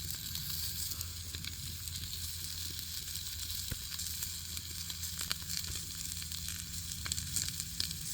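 Steak sizzling in a pot over a campfire: a steady hiss with scattered sharp pops.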